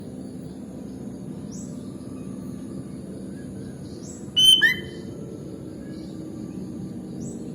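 Sooty-headed bulbul (kutilang) giving one short, loud call of a few quick notes about four and a half seconds in, over a steady low background hum. Faint high rising chirps recur about every three seconds.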